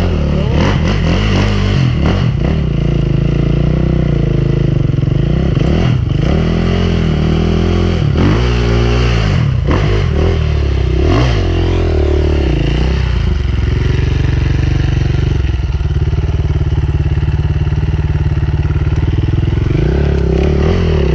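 Enduro dirt bike engine running under constant throttle changes, its pitch rising and falling again and again as it is ridden over rough ground. Light clatter comes through, and for a few seconds in the second half the engine holds a steadier note.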